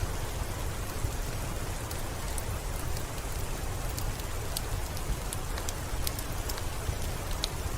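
Steady rainfall: a dense, even hiss over a deep low rumble, with scattered sharp clicks every second or so.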